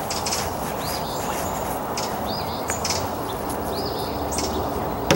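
A songbird repeating a short, hooked whistled call about every one and a half seconds over steady outdoor background noise, with a sharp knock right at the end.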